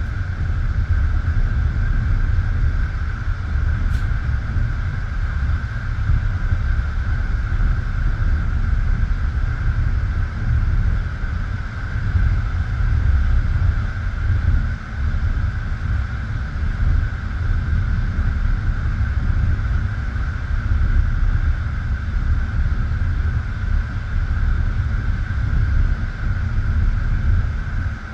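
A moving passenger train heard from the carriage window: a steady rumble of the wheels running on the rails, with a steady high hum over it. A single sharp click comes about four seconds in.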